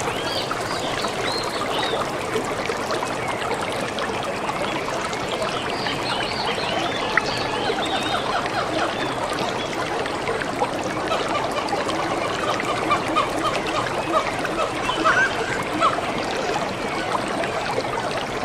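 Water trickling and running steadily, with many short bird chirps over it and some lower calls in the second half.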